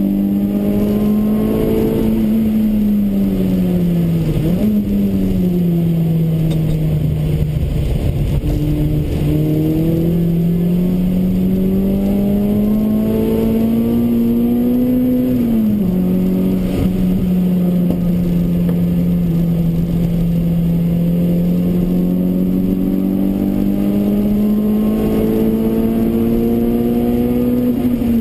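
Toyota Corolla AE93's 4A-GE 20-valve four-cylinder engine running hard under load, heard inside the cabin. Its pitch climbs slowly along the straights and drops sharply at gear changes about four and a half and fifteen seconds in, then falls away near the end as it comes off the throttle.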